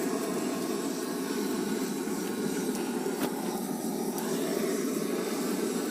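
Gas torch on a cylinder roaring steadily as it is aimed into burning charcoal in a grill, with a few faint crackles from the coals.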